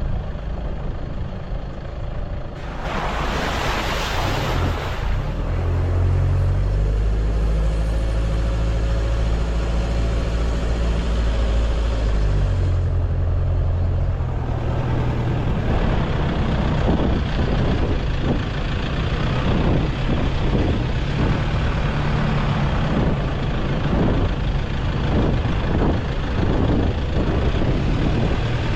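Vehicle engine running while driving, with a loud hiss about three seconds in that lasts a couple of seconds. Frequent knocks and rattles run through the second half.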